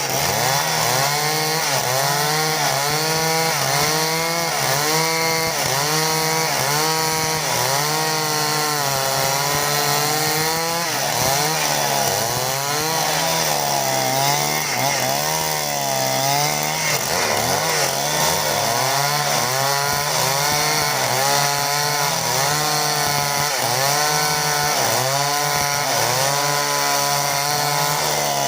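Two-stroke chainsaw cutting through timber under load. The engine pitch dips and rises about once a second as the bar is worked through the wood.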